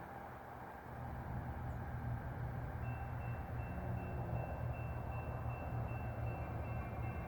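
Diesel locomotive engine rumbling low and steady, growing louder as the train approaches. From about three seconds in, a faint high, repeating tone sounds above it.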